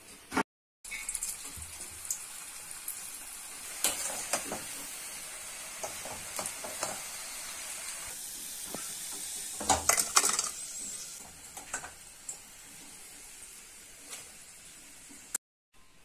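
Potato fingers deep-frying in hot oil in a steel kadai: a steady sizzle with crackling. Metal clinks and scrapes of a spoon stirring against the pan come now and then, loudest about four and ten seconds in.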